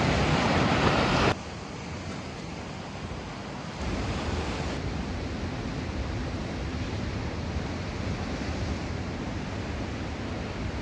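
Steady rush of surf from a rough sea, mixed with wind on the microphone. The level drops abruptly about a second in and rises partway again near four seconds.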